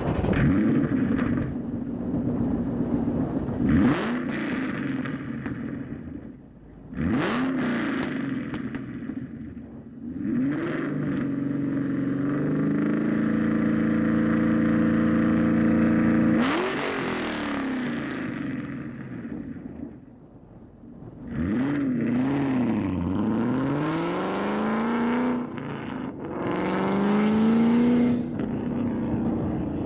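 2013 Shelby GT500's supercharged 5.8-litre V8 through Borla long-tube headers, X-pipe and S-Type mufflers with no catalytic converters, loud and uncorked. It is idling and blipped in quick revs that rise and fall back. About halfway through it is held steady at about 3500 rpm for several seconds, then drops and is revved several more times.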